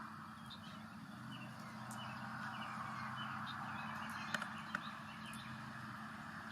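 Small birds chirping in short, scattered calls over a steady background hiss and a low hum, with two sharp clicks a little past four seconds in.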